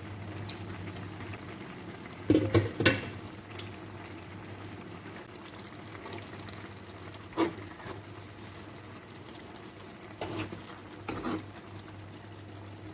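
A pot of vegetable soup cooking on the stove, with a handful of short knocks and clinks from utensils against the pot: a cluster about two to three seconds in, then single ones about seven, ten and eleven seconds in. A steady low hum runs underneath.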